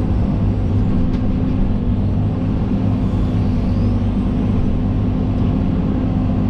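John Deere 130G excavator's diesel engine running steadily with a constant low hum.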